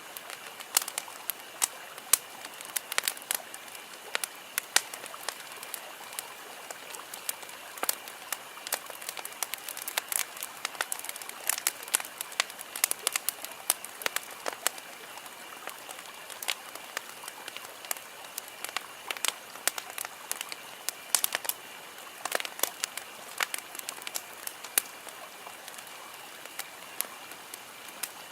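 Wood campfire crackling, with irregular sharp pops and snaps several times a second over a steady hiss.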